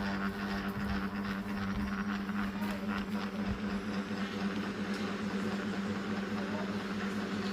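Noisy ceiling fan running, with a steady hum and a constant rushing noise broken by faint irregular ticks.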